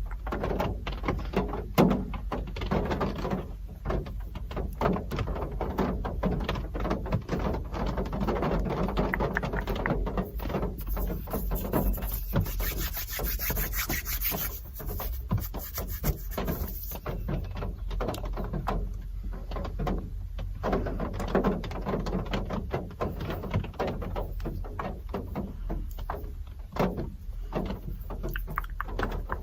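Real rain pattering, with dense irregular drops over a steady low rumble. A brighter hiss comes in for several seconds in the middle.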